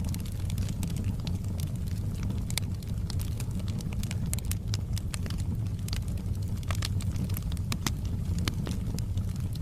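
Wood logs burning in a fireplace: a steady low rumble of flames with frequent, irregular sharp crackles and pops from the burning wood.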